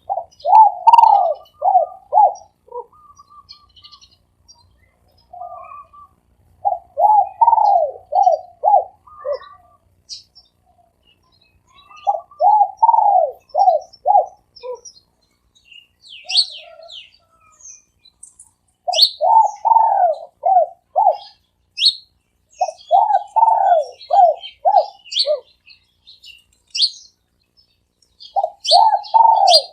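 Spotted dove cooing: repeated phrases of several coos each, a phrase every few seconds, the kind of call that Thai keepers of decoy doves judge by its pattern of notes. Small birds chirp higher up in the second half.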